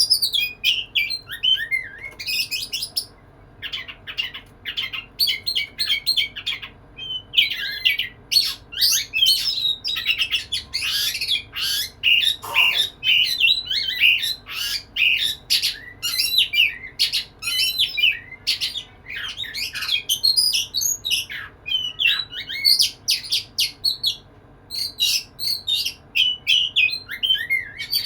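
Male Oriental magpie-robin (kacer) in full courtship song to a female: a fast, varied run of whistled and harsher scratchy notes, pausing briefly a few seconds in and again near seven seconds.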